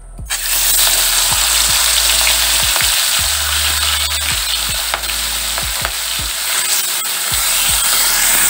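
Raw prawns dropped into hot mustard oil in an aluminium wok and sizzling loudly. The sizzle starts suddenly just after the prawns go in and holds steady, with spattering crackles. Near the end a spatula turns the prawns in the oil.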